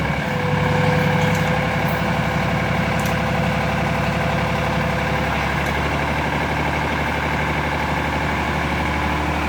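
Sonalika tractor's diesel engine running steadily, with a thin steady whine over it that stops about five seconds in.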